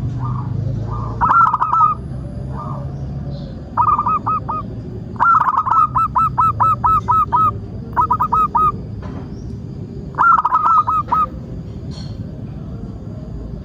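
Zebra dove cooing: five quick runs of short, clipped, downward-bending notes, the longest about two seconds long, with a steady low hum behind.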